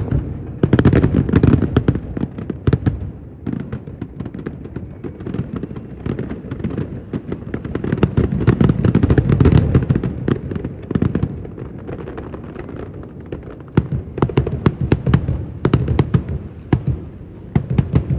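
Fireworks display: a dense, continuous barrage of bangs, pops and crackling, heaviest about a second in and again around eight to ten seconds in.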